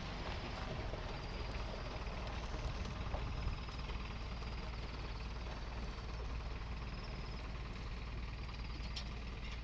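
Game-drive vehicle's engine idling steadily, a low hum, with faint short high chirps in the background.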